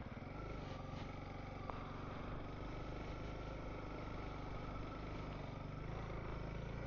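Honda CRF300L dual-sport motorcycle's single-cylinder engine running steadily at low revs.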